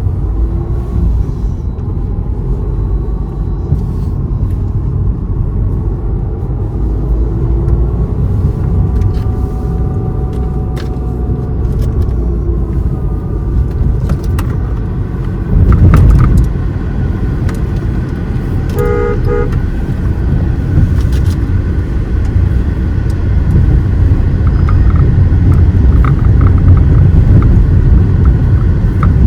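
A car driving, with a steady low rumble of engine and road. The rumble surges louder for about a second just past the middle, and a vehicle horn gives one short toot a few seconds later.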